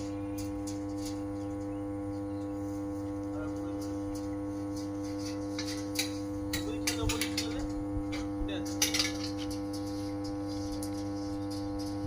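Power transformer humming steadily, a mains hum made of several constant tones. From about six seconds in, a run of short, light clicks and clatters.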